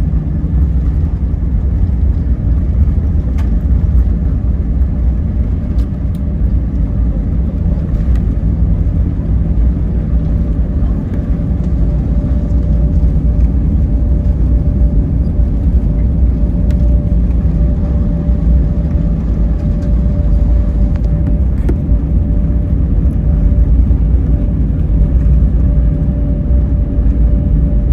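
Steady low rumble of an airliner heard from inside the cabin. A thin steady whine joins it about ten seconds in.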